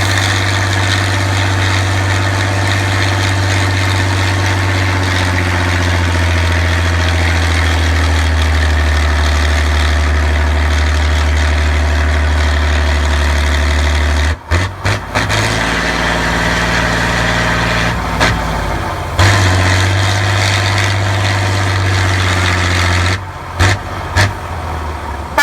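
Heavy truck engine running steadily at low revs with a deep hum, its pitch shifting slightly in the middle. The sound cuts out briefly several times in the second half.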